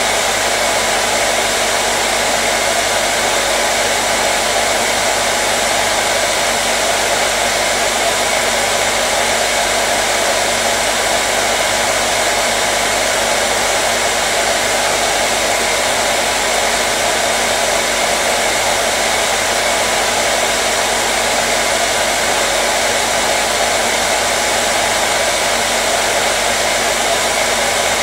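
Hair dryer blowing continuously at a steady speed: an even, unchanging rush of air with a faint motor hum.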